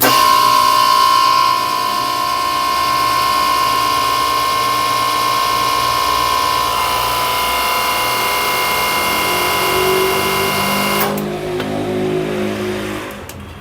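Hose crimping press running under power, a steady whine with a strong high tone. It cuts off suddenly about eleven seconds in, leaving a lower hum that dies away over the next two seconds.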